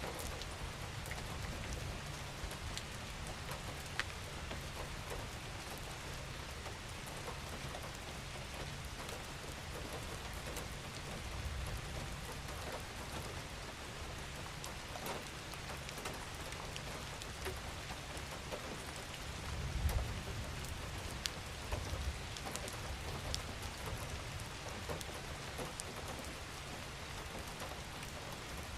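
Steady rain falling on a surface, an even hiss with scattered individual drops ticking through it and a low underlying rumble. The rumble swells briefly about two-thirds of the way through.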